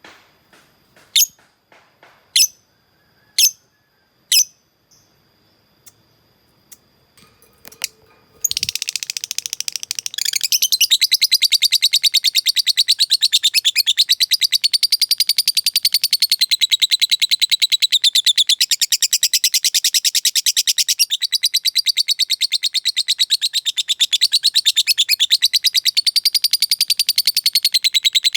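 Lovebird giving a few single sharp chirps about a second apart, then from about eight seconds in breaking into a long, unbroken, very rapid chattering trill: the 'ngekek' that is meant to provoke rival birds.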